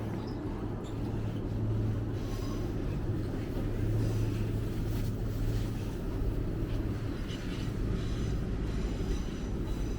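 Street traffic: a heavy vehicle's engine running with a steady low hum, swelling a little about four seconds in.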